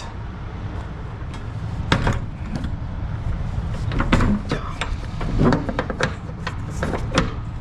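Semi-trailer rear swing doors being shut and latched, heard as a series of separate metallic knocks and clanks. A steady low rumble from an idling truck runs underneath.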